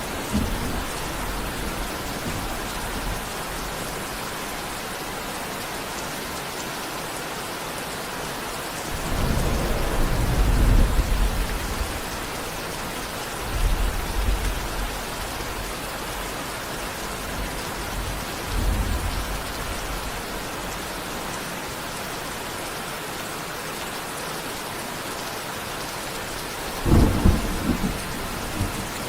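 Steady heavy rain with rolls of thunder: a long low rumble about nine seconds in, shorter ones at about 13 and 18 seconds, and a sharper crack of thunder near the end.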